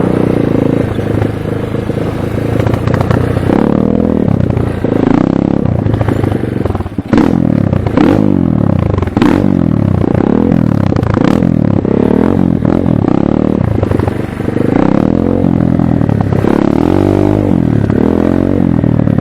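Chinese motocross motorcycle's engine being ridden, revving up and dropping back again and again as the throttle is opened and closed through the gears. A few sharp knocks come in the middle.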